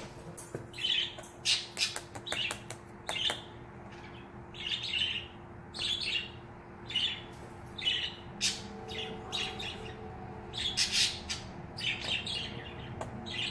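A small bird chirping over and over in short, high notes, with a few light clicks from small metal cartridges being handled.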